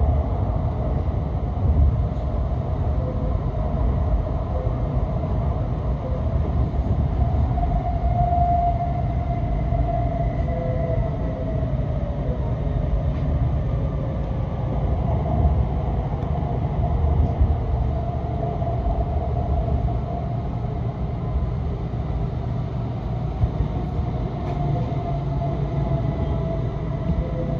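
Inside a Shinkansen car running at speed and slowing toward a station: a steady low rumble of wheels and running gear, with a faint motor whine that slowly falls in pitch as the train brakes.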